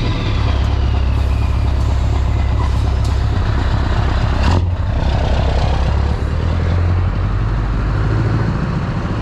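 Scania R560's V8 diesel engine running loud with a deep, steady exhaust note. Its pitch shifts a few times, and there is a short sharp hiss or crack about four and a half seconds in.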